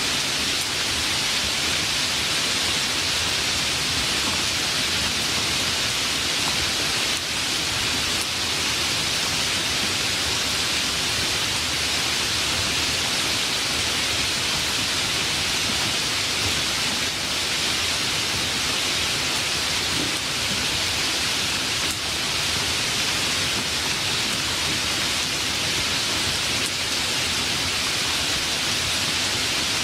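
Steady heavy rain, an even hiss with no single drops or thunder standing out.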